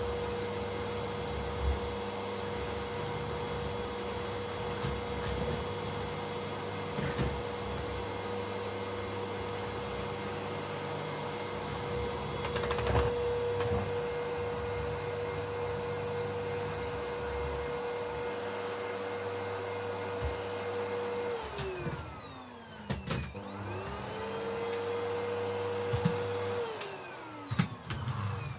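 Household vacuum cleaner running with a steady motor whine and occasional knocks of the nozzle. Near the end the motor winds down and spins back up twice.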